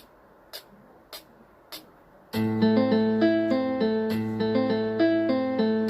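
Four evenly spaced count-in clicks, about 0.6 s apart, then a backing accompaniment of keyboard and plucked-guitar chords over a steady bass note starts about two seconds in.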